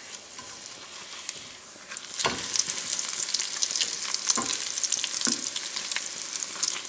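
Breadcrumb-coated bread pocket shallow-frying in hot oil in a pan. A soft sizzle runs for about two seconds; then a knock as it is flipped with a spatula, and the sizzling gets much louder as the raw side meets the oil. A couple more spatula taps against the pan follow.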